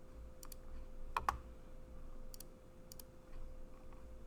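Scattered sharp clicks from working a computer, several in quick pairs, the loudest just over a second in, over a faint steady hum.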